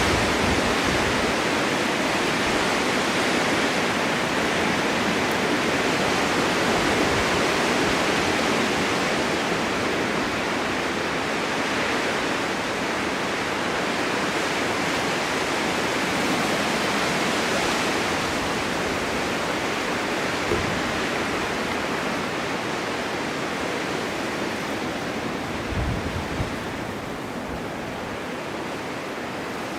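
Blizzard wind driving snow, a steady rushing noise that eases slightly near the end, with a few low thumps near the end.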